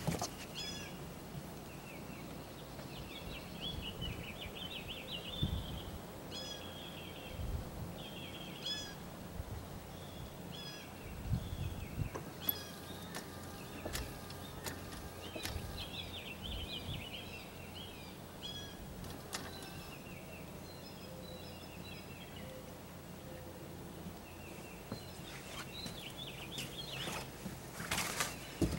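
Small birds chirping and singing in short repeated phrases over a low steady background, with a few faint knocks.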